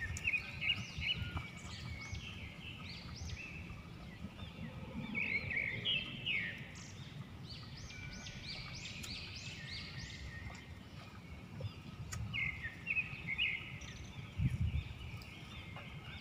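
Several small birds chirping and singing in quick, overlapping notes over a low outdoor rumble.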